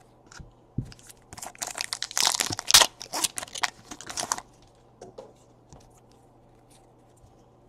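A trading-card pack's wrapper being torn open and crinkled, about three seconds of tearing and rustling in the middle, with a few light clicks of card handling around it.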